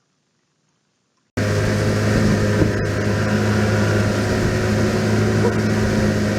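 Near silence, then a little over a second in an engine starts abruptly, already running steadily with a constant low hum over a rushing noise.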